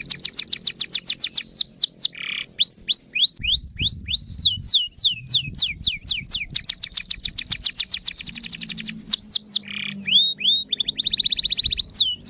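Canary singing a loud, continuous song made of tours of rapidly repeated whistled notes, each sweeping downward in pitch. Slower series alternate with very fast trills, broken twice by a short buzzy note. A faint low background sits underneath.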